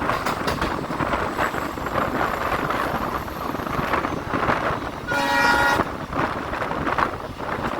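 Passenger train running with a steady rumble of wheels on track, and a short horn blast from its WDP4B diesel locomotive about five seconds in.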